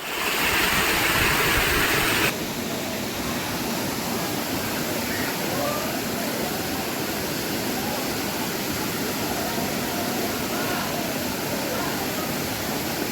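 Steady rush of falling water from a waterfall. A little over two seconds in it drops abruptly to a softer, duller rush, with faint distant voices beneath it.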